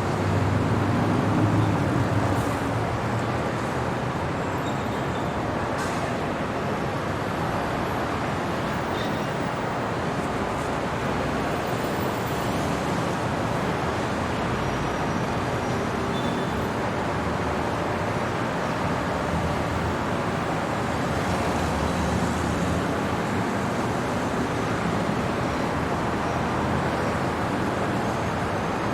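Steady city traffic noise: a constant wash of road vehicles with a louder low rumble of a passing vehicle in the first couple of seconds.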